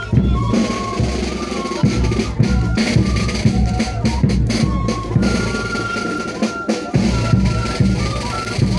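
Live traditional band music: a high, held wind melody over steady beating drums.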